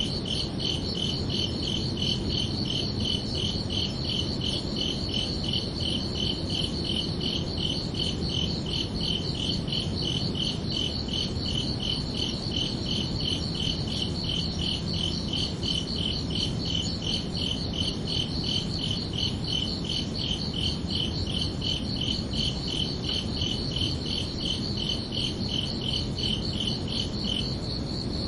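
Crickets chirping in a fast, steady, even pulse at two pitches, the lower chirping pausing briefly near the end, over a steady low rumble.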